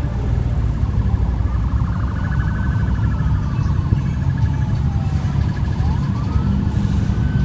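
Emergency vehicle siren wailing, its pitch sliding slowly down over a few seconds and then rising again near the end, over a steady low rumble of street traffic.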